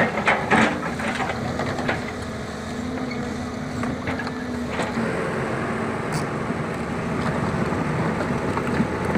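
Heavy equipment's diesel engine running steadily, with a few sharp metallic knocks about half a second and two seconds in.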